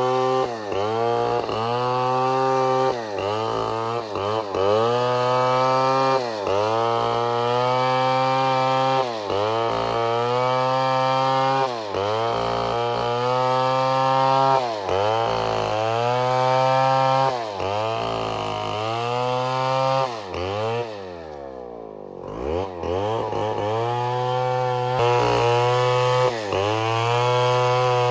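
Two-stroke chainsaw running at high revs, cutting wood, its pitch dipping and climbing back every second or two. About twenty seconds in it drops briefly to idle, then revs up again.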